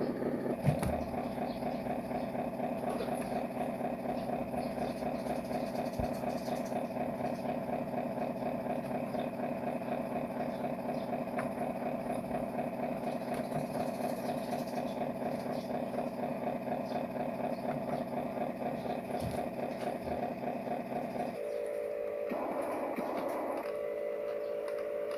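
Huina 770 radio-controlled truck running: a steady engine-like drone made of several held tones with a fine rhythmic flutter. About 21 seconds in it changes to a different, narrower set of tones.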